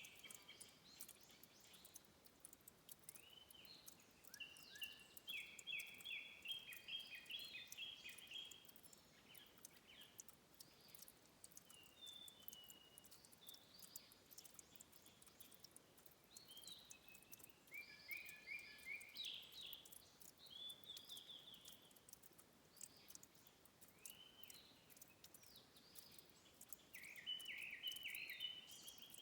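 Faint birdsong: a small bird repeating short, rapid chirping trills every few seconds, the loudest at the start and near the end. Light water drips tick underneath.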